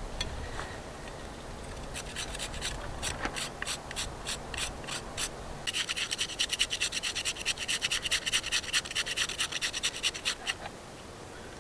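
Rhythmic scraping strokes on wood, spaced about three a second at first, then quickening to a dense run of about six strokes a second for some five seconds before stopping near the end.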